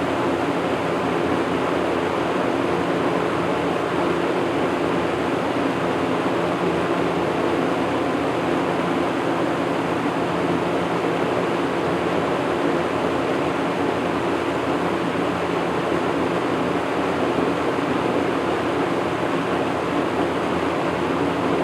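1980s Lakewood second-generation box fan running steadily on high speed: a steady rush of moving air with a low, even motor hum underneath.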